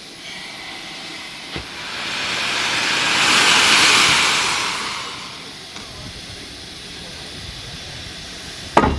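Steam locomotive letting off a hiss of steam that swells over a couple of seconds, then fades away. A sharp knock comes near the end.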